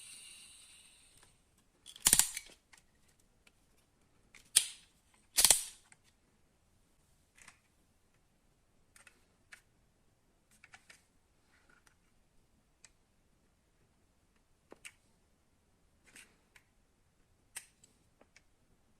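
Die-cast metal model cars being handled: a high whir fades out at the start, then three loud sharp clacks about two, four and a half and five and a half seconds in, followed by light, scattered clicks and taps.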